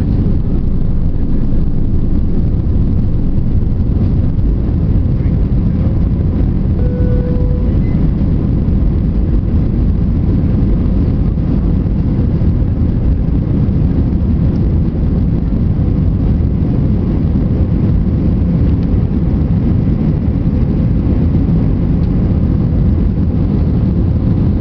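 Airbus A320 jet engines at take-off power, a loud, steady roar that holds even throughout.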